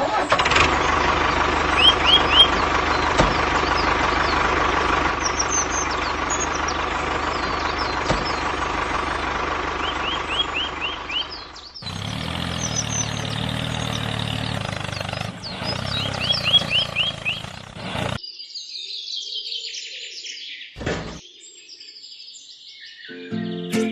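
Birds chirping in repeated short runs of quick rising notes, over a steady mechanical hum. The background changes abruptly twice and is quieter near the end.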